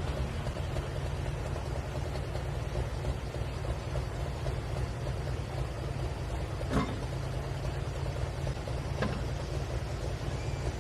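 Pulling tractor's diesel engine idling at the track: a steady low rumble with no revving, with a sharp click about seven seconds in and a fainter one near nine seconds.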